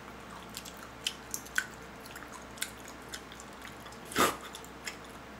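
A man chewing a tough, gristly piece of steak, mouth close to the microphone: scattered small wet clicks and smacks, with one louder noise about four seconds in.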